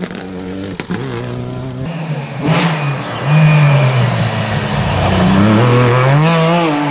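Rally car engine revving hard as the car goes past, its pitch climbing and dropping again and again with the throttle and gear changes. It is loudest through the middle and starts to fade near the end, with a sharp crack in the first half.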